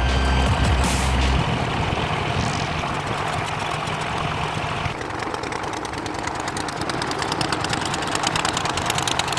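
A fishing boat's engine running steadily, with a rapid fine clicking building up near the end.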